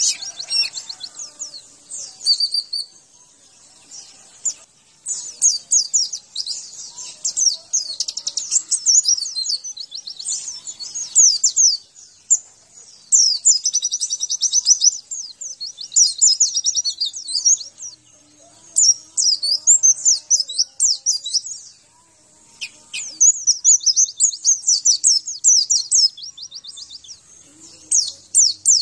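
White-eye (pleci) song: phrases of rapid, high-pitched chirping trills, each one to three seconds long, separated by short pauses.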